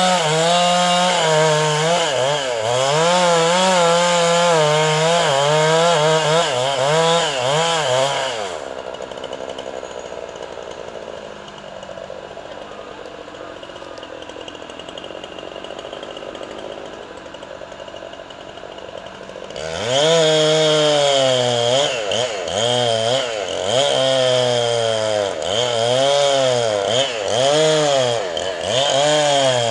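Two-stroke chainsaw cutting wood, its engine pitch repeatedly rising and falling under load. About eight seconds in it drops to a much quieter stretch, and about twenty seconds in it is back at full cutting.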